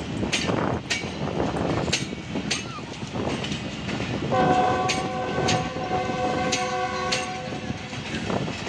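Passenger coaches rolling past, their wheels clicking sharply over the rail joints every half second or so. About four seconds in, a diesel locomotive's multi-note horn sounds one steady chord for about four seconds.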